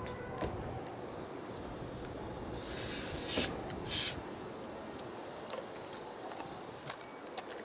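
A train set creeping slowly along the track under a switcher engine's push, a steady low rumble, with two short hisses about three and four seconds in.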